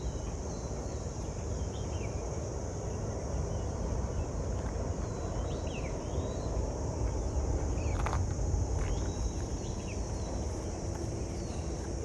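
A steady high insect chorus, with short bird chirps dotted through it over a low rumble.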